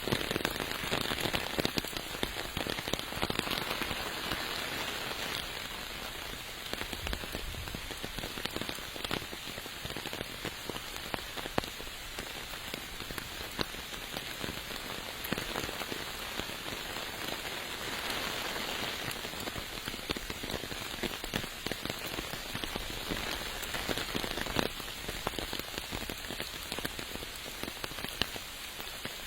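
Steady rain falling on surfaces, a continuous hiss with many individual drops ticking close by.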